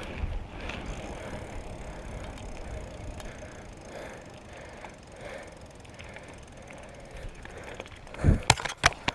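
Bicycle riding along: steady rolling noise from the tyres and drivetrain with faint ticks, then several loud sharp knocks close together near the end.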